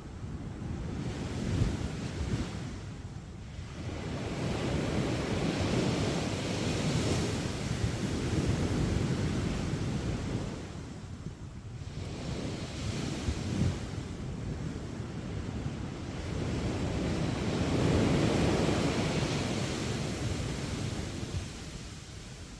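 Sea waves breaking and washing up a beach, swelling and fading in long surges, with a few short low thumps.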